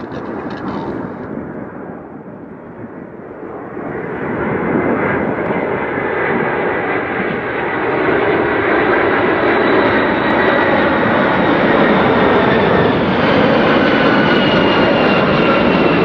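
Widebody jet airliner on landing approach, its engine noise swelling from about four seconds in and holding loud, with thin high whines that slowly drop in pitch.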